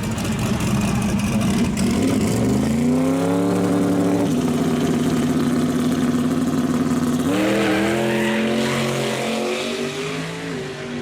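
Drag racing car's engine under full throttle. Its pitch climbs about two and a half seconds in, holds steady, then jumps and climbs again near the three-quarter mark.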